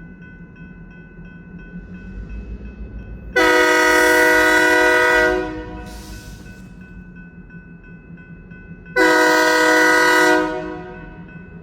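Diesel locomotive air horn sounding two long blasts, each about two seconds, over a steady low engine rumble. Two long blasts is the North American signal that the train is releasing its brakes and about to proceed.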